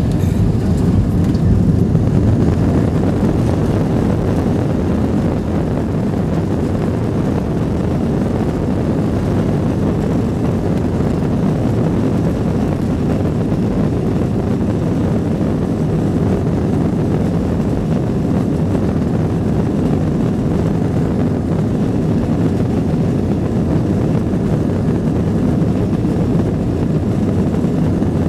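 Airbus A321 passenger jet heard from inside the cabin: a steady, deep drone of the engines and airflow, holding level throughout with no clear change in pitch.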